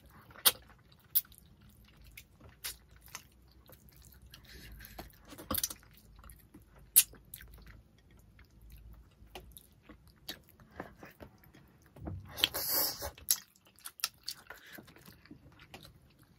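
Close-miked eating sounds of fish in coconut sauce eaten by hand: chewing, with sharp wet lip smacks and finger-sucking clicks scattered throughout. A longer, louder noisy sound comes about twelve seconds in.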